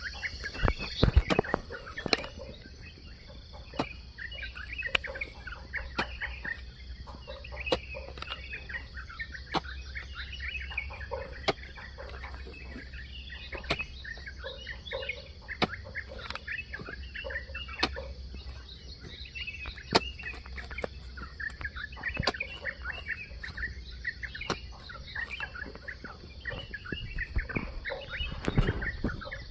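Many birds chirping and chattering continuously, with a dull knock about every two seconds from a hoe striking the soil.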